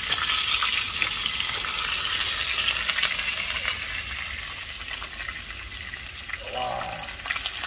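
Dumplings sizzling and spattering in hot pork fat in a frying pan, loudest in the first few seconds and slowly dying down, with tongs turning them now and then.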